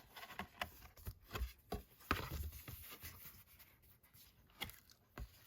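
Handling of card and paper packaging items: light rubbing and rustling with scattered soft taps and clicks, the sharpest tap about four and a half seconds in.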